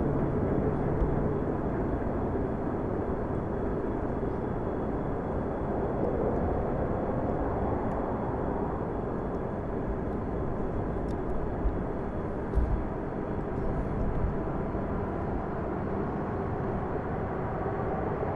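Passenger train hauled by an EP2K electric locomotive running along the track: a steady rolling rumble with a faint steady whine in it, and a few short low knocks about twelve seconds in.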